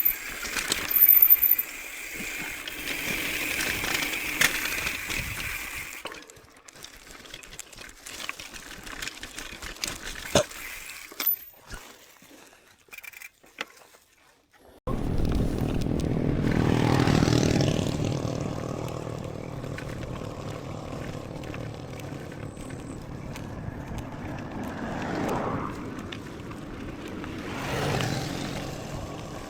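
Mountain bike being ridden, heard from a chest-mounted camera: tyre noise and scattered rattling knocks over the trail, with wind on the microphone. It goes quieter for several seconds, then about halfway through a louder steady rush of wind and rolling comes in suddenly.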